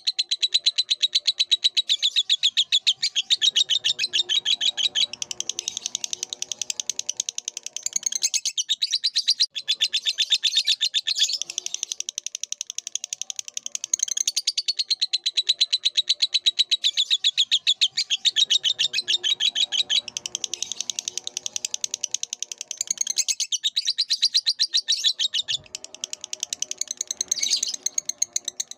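Lovebird singing a long, rapid, high-pitched chattering twitter that goes on almost without a break, pausing only briefly a few times.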